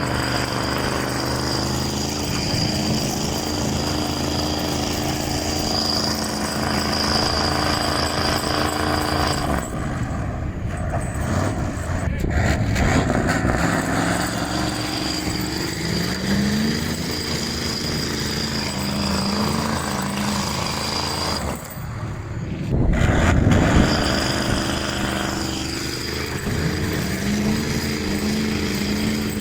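Concrete truck's big diesel engine running under load, its pitch swelling up and down as it revs, with a steady high whine over it. The sound breaks off briefly about ten seconds in and again a little past twenty seconds.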